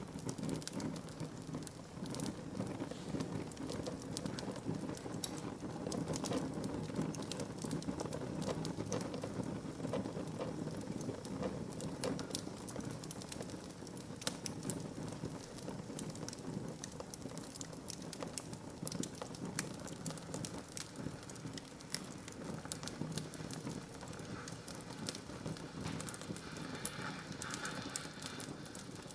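Wood fire burning in a fireplace, with a steady low rush of flame and many small, irregular crackles and pops from the burning wood.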